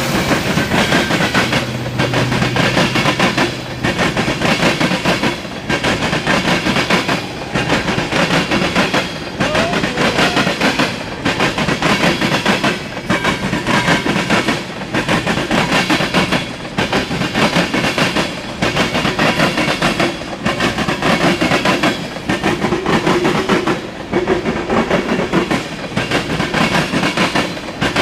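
Freight train cars rolling past, wheels clattering over the rail joints in a steady repeating rhythm, the noise dipping about every second and a half.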